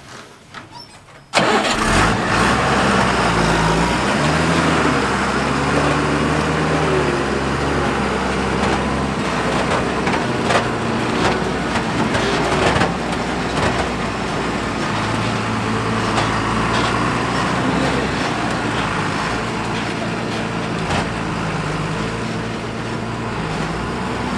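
A diesel engine starts abruptly about a second in and keeps running, its pitch rising and falling as it is revved, with a few sharp knocks along the way.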